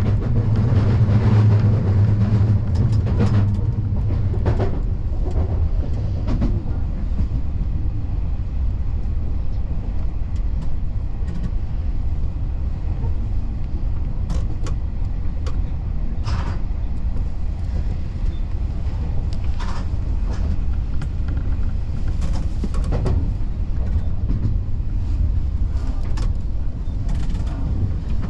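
Keio Inokashira Line electric train running on the track: a steady low rumble with scattered clicks and knocks from the wheels and rails. A stronger low hum fades after the first few seconds.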